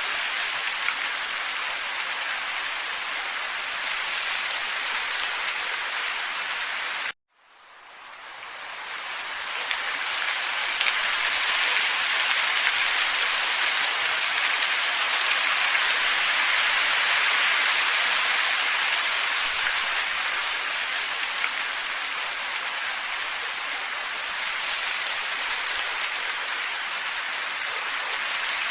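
Steady, even hiss of a looped wind ambience. About seven seconds in it cuts out suddenly to silence and fades back in over a couple of seconds, where the track's loop is joined.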